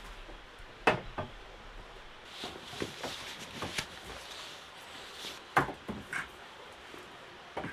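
Irregular sharp knocks and clicks, about seven in all, over a steady background hiss; the loudest come about a second in and just past the middle.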